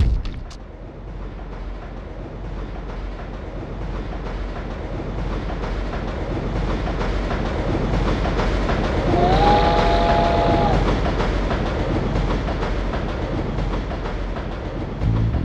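A train passing: a rumble that builds and then eases off, with its horn sounding once for about a second and a half just past the middle.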